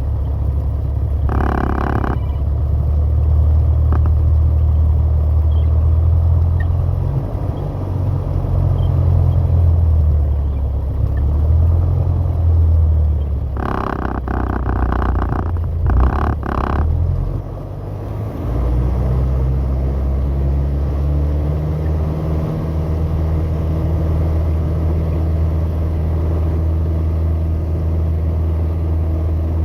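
Piper PA-28 light aircraft's piston engine droning steadily, its tone shifting slightly about two thirds of the way through. Short bursts of higher-pitched noise come near the start and again about halfway.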